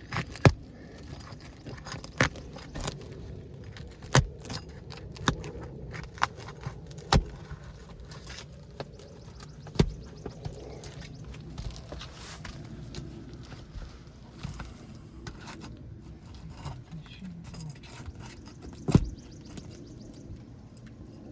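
Irregular sharp taps and knocks with some scraping: a hand tool prying and working at asphalt roof shingles to break them free for removal.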